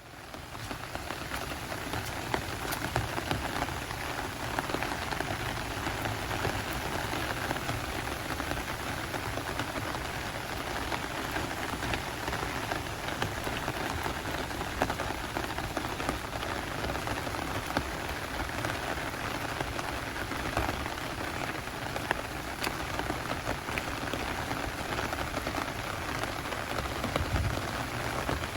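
Heavy downpour rain: a steady, dense hiss of rainfall with many small close drop ticks, fading in at the very start.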